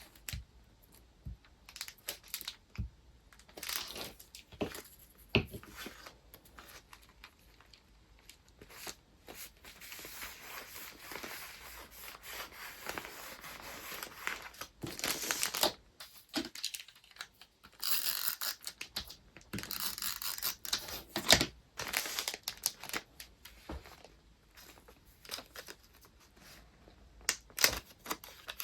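Paper and wrapping materials handled up close: crinkling, rustling and sliding, with stretches of longer tearing-like rustles and many small taps and clicks.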